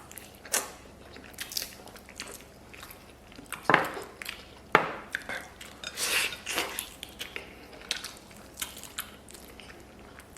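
Close-up eating sounds: a man biting and chewing soft braised pig trotter, with scattered clicks of tableware and two loud sharp clicks about four and five seconds in.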